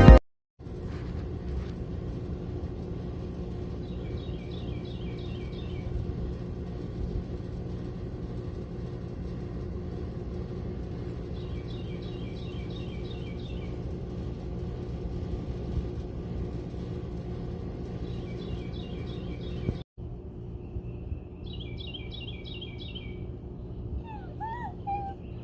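Steady low rumbling background noise with a small bird chirping in short runs of quick high notes, four times.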